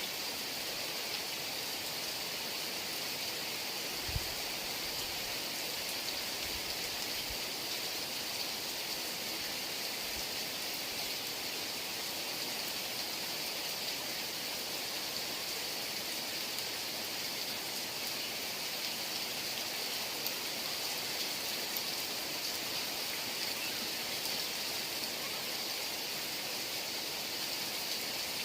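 Heavy rain falling in a steady, even hiss, with a few brief low thuds about four, seven and ten seconds in.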